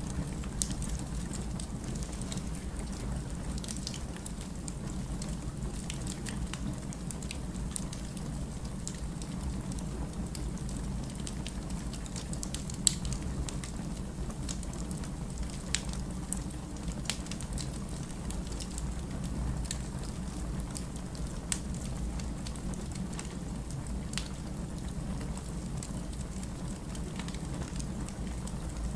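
Wood fire crackling, with irregular sharp pops and snaps over a steady low rumble, and one louder pop about halfway through.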